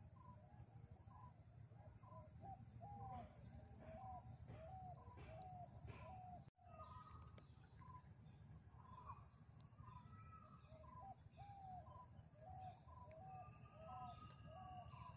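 Faint birdsong: a bird repeats short, arched call notes about twice a second in two runs, over a low outdoor rumble. The sound drops out suddenly for a moment about six and a half seconds in.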